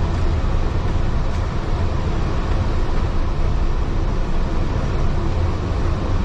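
Heritage railway carriage running along the track, heard from inside: a steady low rumble of wheels on rails.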